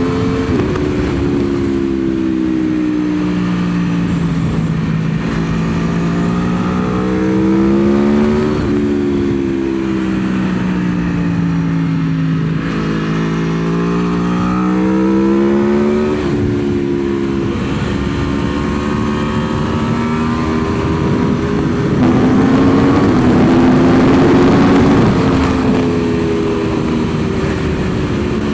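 Aprilia Tuono V4's V4 engine heard from on board on a race track: its pitch climbs under acceleration and drops sharply at each gear change, then sags as the rider rolls off and climbs again, several times over. A steady rush of wind noise lies under the engine.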